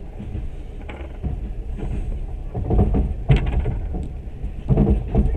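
Train running along the track: a steady low rumble with two louder bursts of clatter, one a little past halfway and one near the end.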